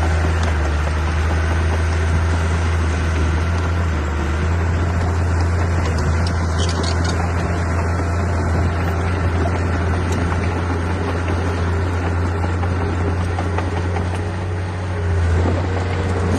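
Heavy diesel engine of an earthmoving machine running steadily under load, with a deep, even hum. The engine note swells briefly near the end.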